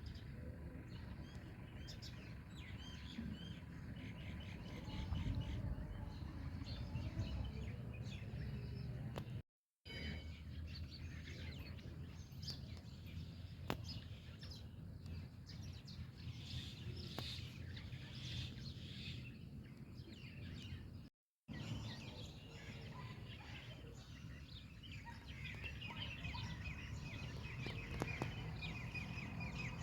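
A bulbul gives repeated short chirps and song phrases over steady low outdoor background noise. The audio cuts to silence twice, briefly.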